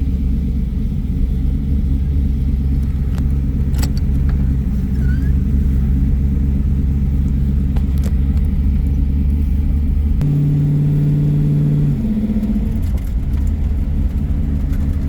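5.3-litre LS V8 in a 1989 Camaro IROC-Z running at low speed, a steady low rumble as the car rolls slowly. About ten seconds in, the engine note rises and holds steady for about two seconds before settling back.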